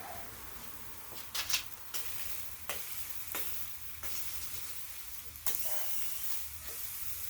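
Quail sizzling over a charcoal fire, a steady hiss, with several sharp clicks and knocks through it; the loudest is a quick double clack about a second and a half in.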